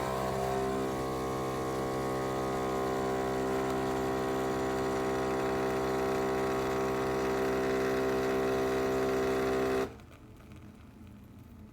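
Philips 3200 espresso machine's water pump buzzing in a steady, even hum, which cuts off suddenly near the end.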